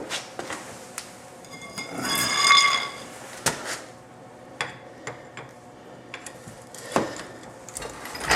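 Metal knocks and clinks from a rusted rear subframe cross member and its control arms being handled down off a floor jack, with one ringing metal clang about two seconds in.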